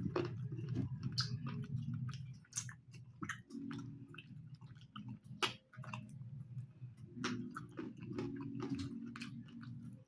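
Close-up chewing and mouth sounds of a person eating curry with rice, with wet smacks and sharp clicks throughout and one louder click about five and a half seconds in.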